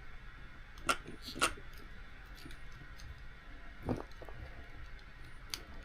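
Four separate light clicks and knocks over a low steady hum: small plastic RC car parts and receiver plugs being handled.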